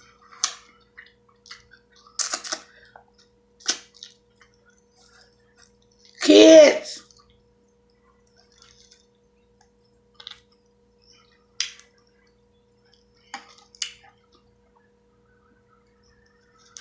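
Scattered short, wet eating sounds, lip smacks and sucks at crab from a seafood boil, with stretches of quiet between them. A woman shouts once about six seconds in, and a faint steady hum runs underneath.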